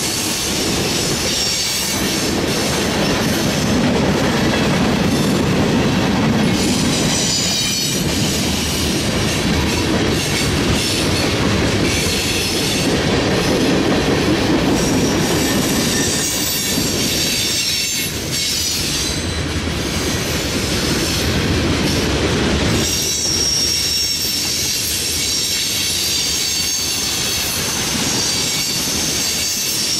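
Freight train of tank cars and covered hoppers rolling past close by: a steady loud rumble of steel wheels on rail, with clicking over the rail joints. High-pitched wheel squeal comes and goes and is strongest in the last several seconds.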